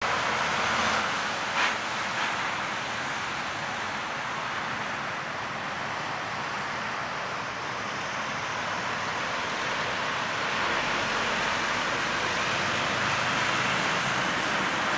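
Boeing 767-300ER jet engines on landing approach: a steady roar of jet noise that grows a little louder over the last few seconds, with one short click about a second and a half in.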